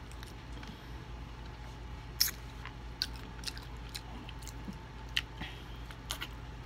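Close-up mouth sounds of chewing and sucking the gristle off the ends of fried chicken bones: scattered wet smacks and clicks, the loudest about two seconds in.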